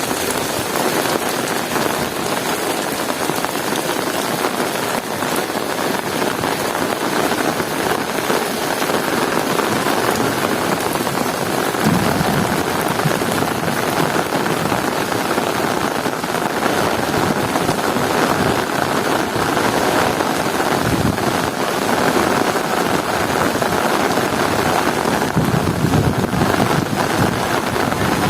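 Heavy rain falling steadily and splashing on surfaces, with low rumbles of thunder swelling up about twelve seconds in, again about twenty-one seconds in, and near the end.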